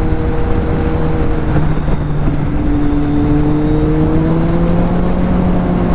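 Kawasaki Z800's inline-four engine running on the move, its pitch dipping slightly about two seconds in and then climbing slowly. Wind rumbles on the microphone underneath.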